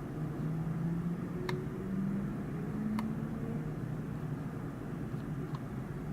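Steady low rumble of distant jet aircraft and city traffic, heard from high above, with two sharp clicks about a second and a half apart.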